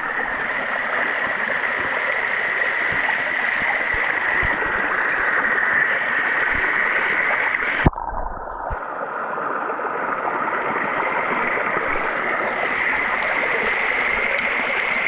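Steady rush of water from a small waterfall into a creek. About halfway through there is a sharp click, and the sound is briefly muffled for under a second.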